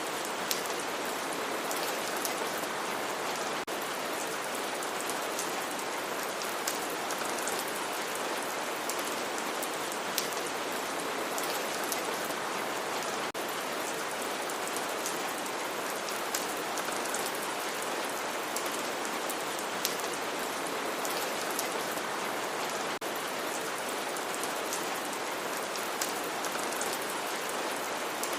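Steady heavy rain falling, an even hiss with scattered sharper drop ticks.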